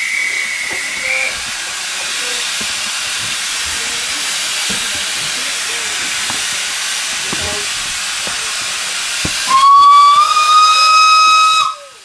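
Steam locomotive hissing steadily, with a brief high whistle tone at the very start. Near the end the locomotive's steam whistle blows for about two seconds, the loudest sound, then stops abruptly: the signal that the train is about to depart.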